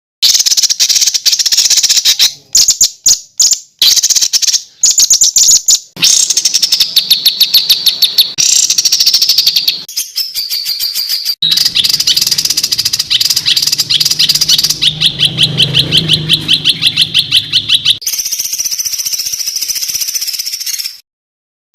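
Spliced recordings of songbird song: fast, dense runs of rapidly repeated sharp high notes, many a second, the clip changing abruptly every few seconds, with a few short breaks.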